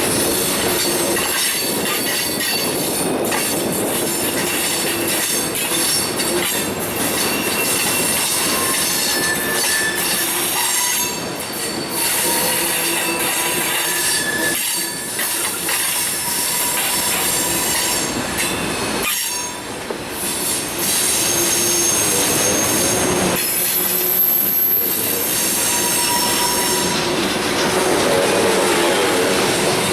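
Railroad cars rolling past, their wheels squealing on the rails, with clatter from the track. Several squeal tones at different pitches come and go over a steady rolling noise.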